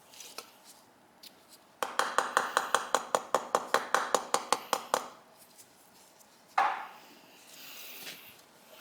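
Rapid light tapping on the seized cover of a 1985 Yamaha V-Max carburetor to loosen it, about six taps a second for around three seconds, then one louder single knock.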